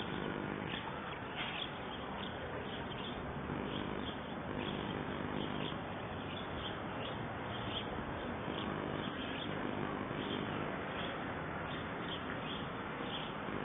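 Small birds chirping, short high chirps repeating every half second or so, over a steady outdoor hiss.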